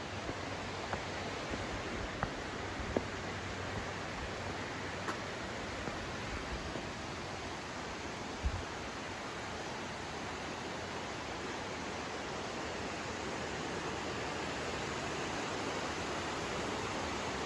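Steady rushing of a mountain stream flowing down over rocks, growing a little louder near the end, with a few faint knocks in the first several seconds.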